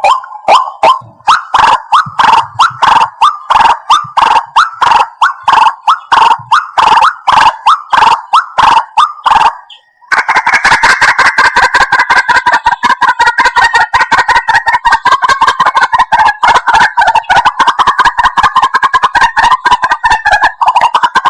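White-breasted waterhen calls, played back as a bird-trapping lure. Loud, harsh notes repeat about three times a second, break off for a moment about ten seconds in, then resume as a dense, unbroken stream of overlapping calls.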